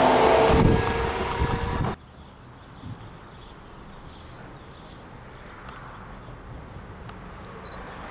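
Red DB regional electric multiple-unit train running past close by, a loud rail rumble with a steady motor tone, cut off abruptly about two seconds in. Quiet outdoor ambience follows, with a distant approaching train slowly growing louder near the end.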